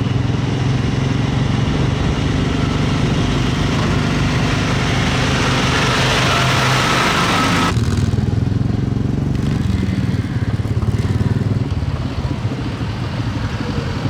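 A motor vehicle engine running steadily, with a rushing hiss over it that builds through the first half and cuts off abruptly a little under eight seconds in.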